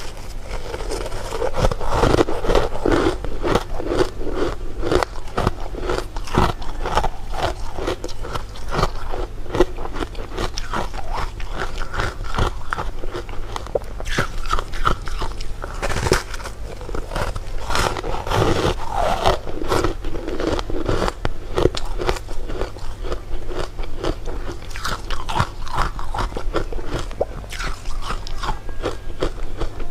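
Close-miked biting and chewing of crunchy candy: a dense, irregular run of crisp crunches.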